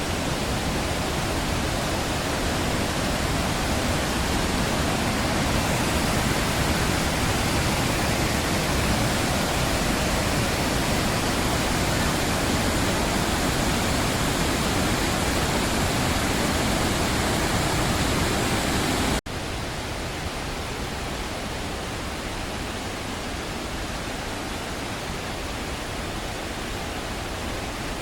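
The steady roar of a waterfall's falling and rushing water. About two-thirds of the way through it cuts off for an instant and carries on slightly quieter and duller.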